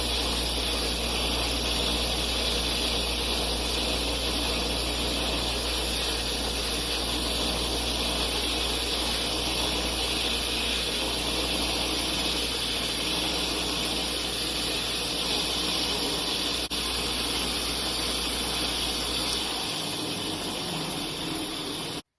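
Old bench grinder running with a buffing wheel while a plastic car lens is buffed against it, a steady whirring hiss over a low motor hum. Near the end the low hum stops, and the sound then cuts off abruptly.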